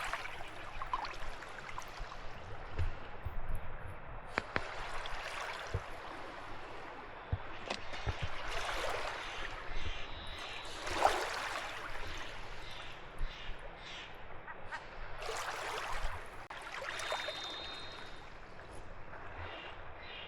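Small waves washing onto a rocky shore, swelling every few seconds. A few faint clicks are heard among them.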